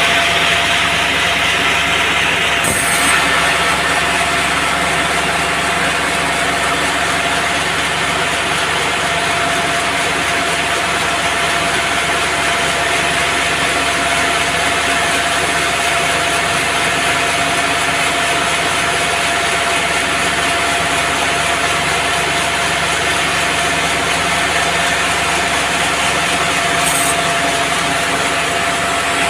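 Band sawmill running steadily as its blade cuts through a teak log, a continuous mechanical noise with a constant whine, the blade hiss a little brighter for the first three seconds.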